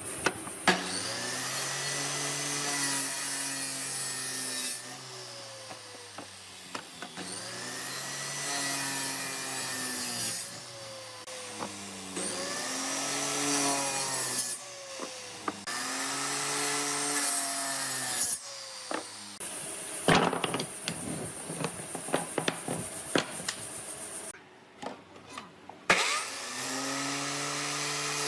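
Electric power tool cutting wood in repeated passes of a few seconds each, its motor pitch dipping and recovering as it bites into the wood. There are sharp knocks between passes near the end.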